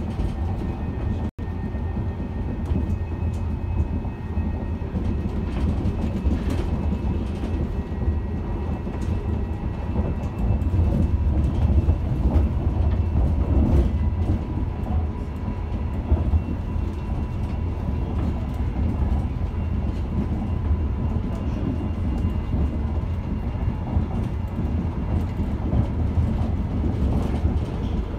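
Passenger train running along the line, heard from inside the carriage: a steady low rumble of the wheels on the track with a faint steady whine over it and occasional clicks over the rails.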